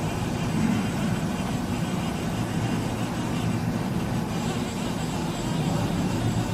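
Haas TM-2 CNC toolroom mill running under power: a steady mechanical hum with a thin, constant high whine over it.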